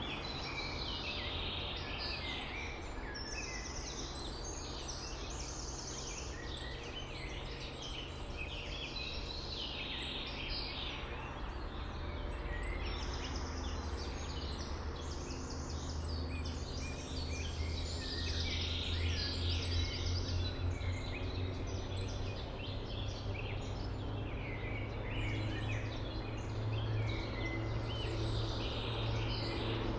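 Several songbirds singing at once, overlapping trills and chirps, over a low steady rumble that grows louder in the second half.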